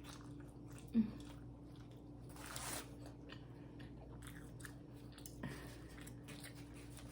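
Faint chewing and mouth sounds of a person eating, with scattered small clicks and crunches over a faint steady hum.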